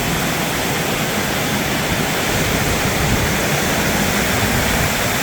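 Heavy rain drumming on a metal roof: a loud, steady, deafening roar with no break.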